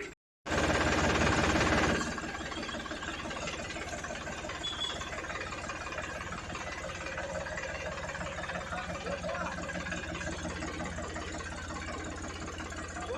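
Powertrac tractor's diesel engine idling with a steady, even chug. About half a second in, a louder, noisier burst lasts about a second and a half before the idle settles.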